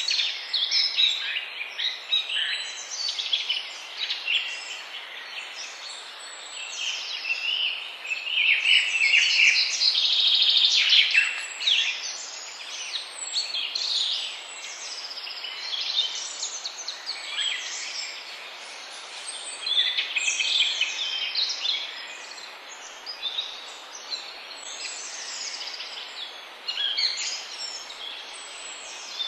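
Several songbirds singing at once: overlapping chirps, whistles and trills over a steady background hiss, fullest in the middle of the clip.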